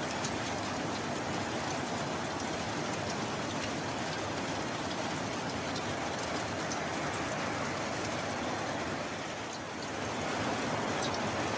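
Steady rain falling, with scattered individual drops ticking through it; it eases slightly about nine seconds in, then picks back up.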